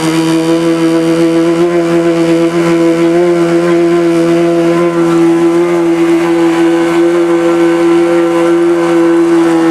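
Engine of a homemade amphibious Subaru car-boat running at a steady pitch while it is under way on the water.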